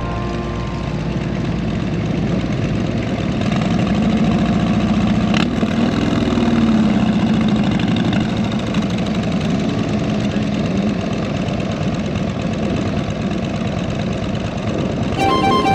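Motorcycle engines running at low revs, a dense steady rumble whose pitch rises and falls briefly about six seconds in. A steady high tone with overtones sets in just before the end.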